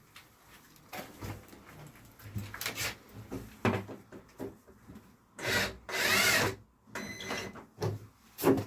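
Hand work on wooden ceiling boards: scattered knocks and rubbing of wood, with a loud rasping burst lasting about a second about five and a half seconds in.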